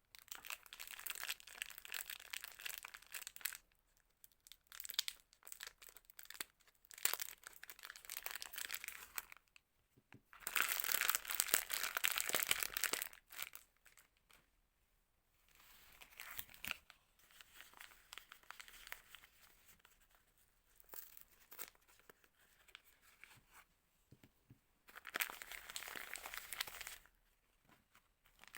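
Soap packaging being torn open and crinkled by hand, in irregular spells of rustling and tearing. The loudest spell comes about ten seconds in, another near the end, with quieter rustling between.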